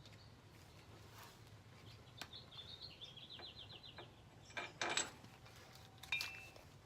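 Metal clinks and a short clatter as hub bolts are handled, loudest about five seconds in and again a second later. Birds chirp in the background, with a quick run of chirps near the middle.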